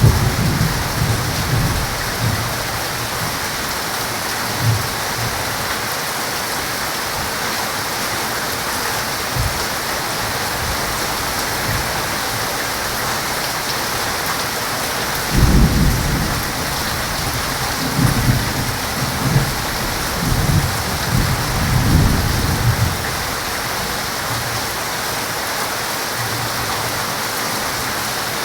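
Heavy rain falling steadily in a thunderstorm, with thunder rumbling at the start and again in several rolls from about halfway through.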